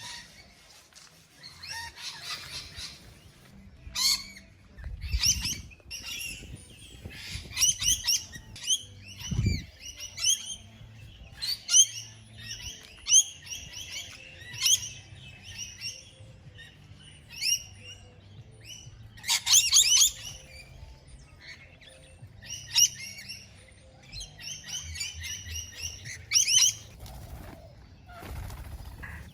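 Pet parrots calling over and over with short, high chirps and squawks, in scattered bouts, with a couple of low thuds.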